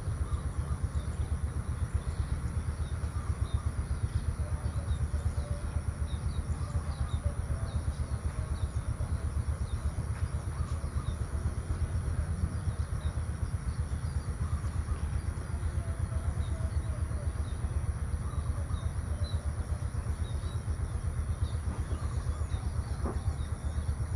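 Outdoor morning ambience: a steady low rumble with faint, scattered bird chirps over it and a thin, steady high hiss.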